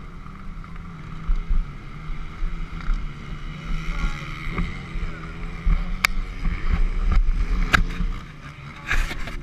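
Yamaha YZ250F's 250 cc four-stroke single running at low speed, a steady low hum, with wind rumbling on the helmet camera's microphone. Several sharp clicks come in the second half, more of them near the end.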